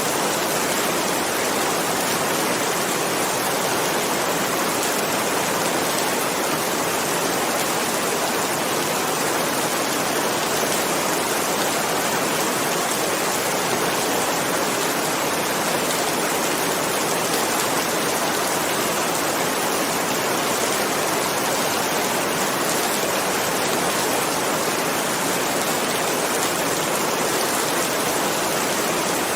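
Steady rain falling without a break, an even hiss with no thunder.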